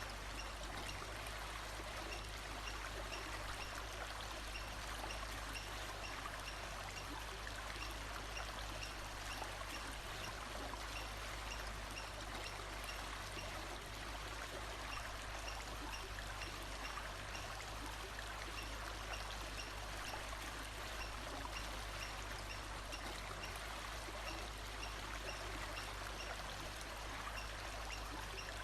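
Steady rushing of running water, with a faint high chirp repeating at a regular pace behind it.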